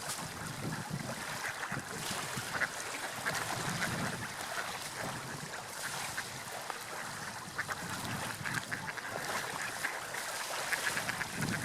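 Seagulls giving repeated short calls over the steady wash of sea waves.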